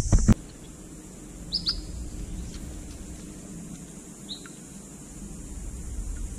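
Two sharp knocks at the very start, then a bird calling in short, high, downward-slurred chirps: a quick pair about a second and a half in, another past four seconds, and one more near the end, over a faint, steady low rumble.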